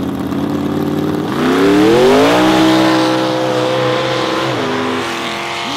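Race car engine launching down an ice drag strip: it revs up sharply about a second in, holds at high revs as the car pulls away, then drops in pitch and fades near the end.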